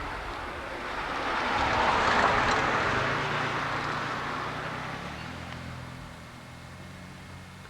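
A motor vehicle passing by: its noise swells to a peak about two seconds in, then fades, leaving a low engine hum.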